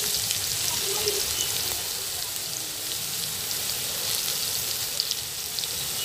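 Crushed shallot and green chilli paste sizzling steadily in hot coconut oil, with scattered small crackles and pops.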